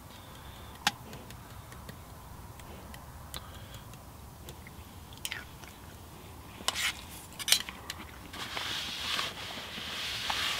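A man chewing a mouthful of corned beef hash close to the microphone, punctuated by a few sharp clicks, with a crunchier stretch of chewing near the end.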